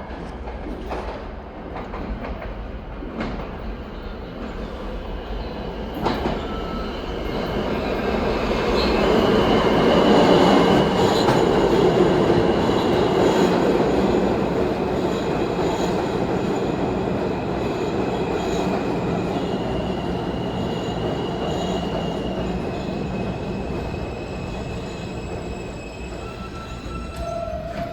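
New York City subway R train running on the rails, swelling to its loudest about ten seconds in and then slowly easing off as it slows for a station, with steady high-pitched squeals from the wheels and brakes. A short tone sounds near the end.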